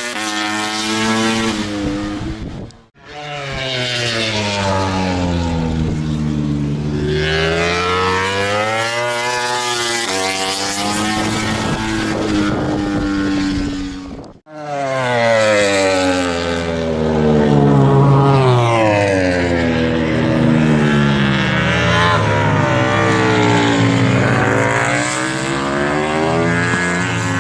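Honda RC213V MotoGP bike's V4 engine revving hard, its pitch rising and falling again and again, with two brief dropouts about 3 and 14 seconds in.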